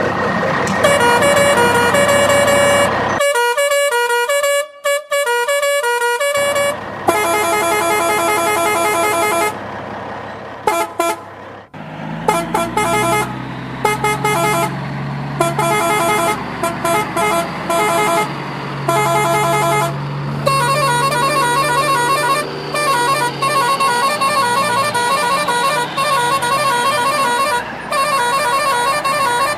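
Cartoon vehicle horns honking in repeated short musical patterns, with changing tunes and a low steady hum partway through.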